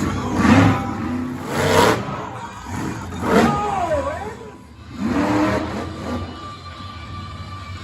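Monster truck engine revving hard in repeated bursts, about four surges, each climbing in pitch and then dropping away.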